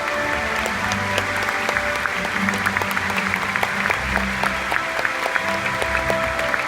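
A large audience applauding steadily, dense clapping over music with sustained notes and a low bass line.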